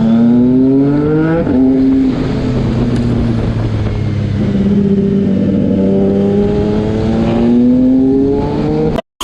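Superbike engine pulling hard under acceleration. Its note climbs, drops at a gear change about a second and a half in, holds steady, then climbs again before cutting off suddenly near the end.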